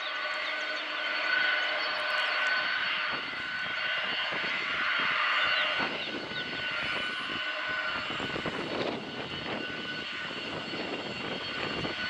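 Jet airliner's engines running, a steady high whine over a broad roar, with gusty wind rumble on the microphone.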